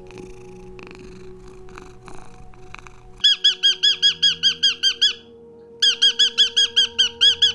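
A soft low rumble, then from about three seconds in a loud, rapid run of high, arched peeps, about six a second, typical of a young bird such as a chick or duckling. The peeping breaks off briefly and starts again.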